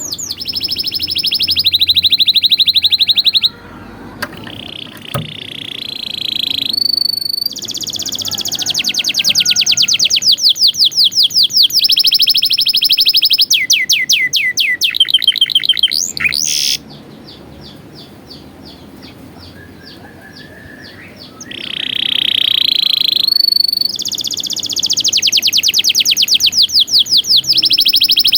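Domestic canary singing a long song of rapid trills. Each trill is a fast run of one repeated note, switching to a new trill of different pitch every second or two. About two-thirds of the way through there is a softer passage of slower repeated notes, and then the loud trilling resumes.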